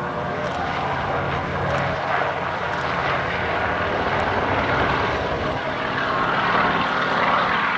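Sikorsky UH-34D helicopter in flight, its radial piston engine and rotor making a steady drone that swells a little near the end.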